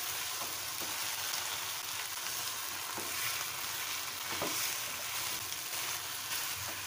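Chicken pieces with garlic and green chillies sizzling in oil in a nonstick karahi while being stirred and turned with a spatula, a steady frying hiss with a few soft spatula strokes against the pan. This is the bhuna stage, frying the chicken further until the masala cooks down.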